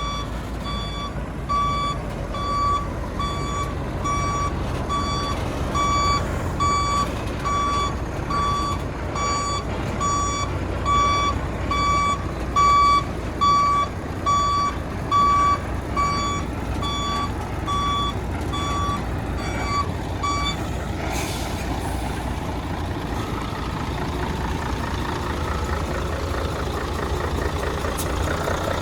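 A truck's reversing alarm beeping steadily, about three beeps every two seconds, then stopping about 20 seconds in, signalling the truck backing up. A diesel engine runs underneath throughout.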